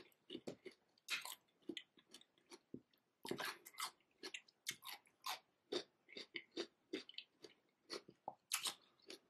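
Close-miked chewing of a raw cucumber: a run of small, irregular crisp crunches with the mouth closed.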